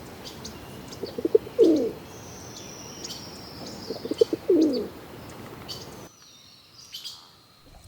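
Pigeon cooing: two low coos about three seconds apart, each a short stutter ending in a falling glide.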